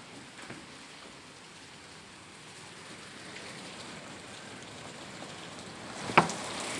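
Steady rain falling, a hiss that grows slightly louder toward the end, with one sharp knock near the end.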